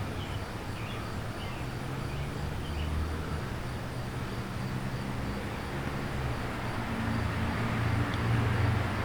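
Low engine hum from a distant motor vehicle, growing steadily louder toward the end as it approaches. A few faint bird chirps sound in the first couple of seconds.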